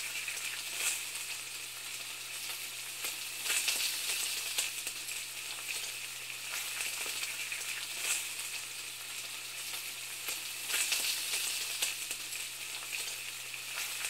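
Steady sizzling hiss, like food frying in a hot pan, with scattered crackles throughout and a low steady hum beneath.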